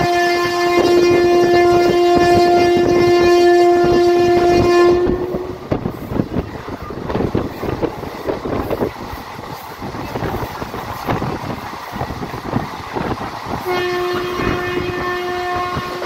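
Lohit Express train horn sounding one long steady blast that stops about five seconds in. Wheels then clatter over the rails at speed, and the horn sounds again near the end.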